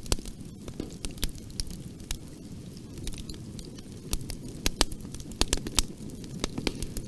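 Wood fire crackling in a fireplace: irregular sharp pops and snaps over a steady low rumble of flames, with a cluster of louder pops about four to six seconds in.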